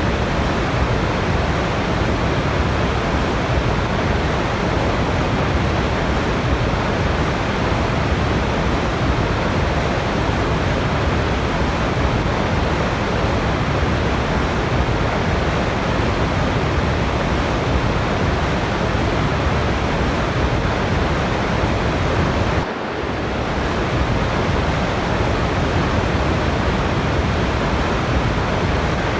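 Steady, dense rushing of a waterfall, an even roar of falling water with no changes except a brief dip in level about three-quarters of the way through.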